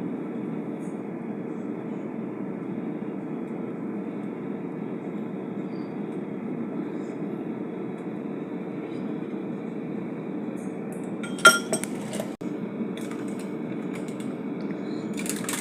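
A steady, even hum runs under the kitchen work, and about eleven seconds in a utensil clinks sharply against a dish with a short ring, with another clink near the end.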